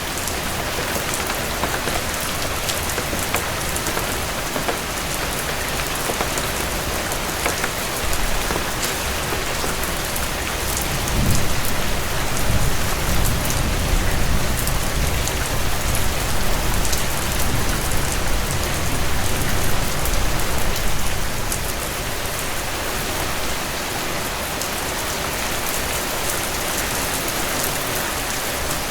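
Heavy rain falling steadily and pattering on a surface. A low rumble swells about a third of the way in and fades about ten seconds later.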